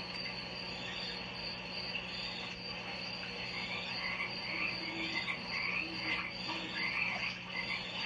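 Chorus of frogs and insects calling: many short overlapping chirps and croaks over a steady high insect trill, with a steady low hum underneath.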